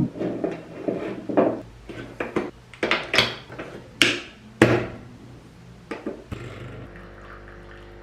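Small objects being handled on a hard work surface: a run of light knocks, taps and scrapes, three louder ones a little past the middle, then a faint steady hum near the end.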